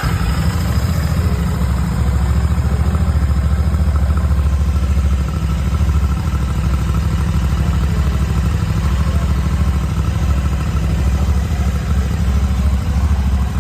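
Royal Enfield Classic 650's parallel-twin engine idling through its twin exhausts, a steady low throb.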